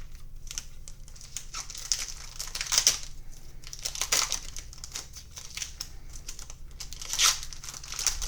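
Plastic wrapper of a Panini Prizm football card pack crinkling as it is handled and torn open, with louder rustling bursts about three, four and seven seconds in.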